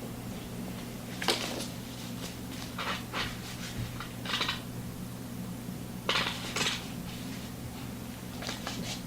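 Several short, sharp clinks and clicks at irregular intervals over a steady low hum.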